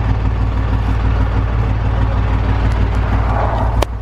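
Motor vehicle engine running with a steady low rumble. A single sharp click comes near the end.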